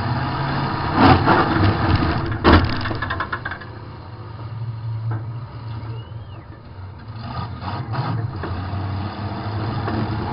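Demolition derby car's engine running, heard from inside the car, with two hard crashing impacts about a second and a half apart in the first few seconds. The engine then eases off and picks up again in a few rough bursts near the end.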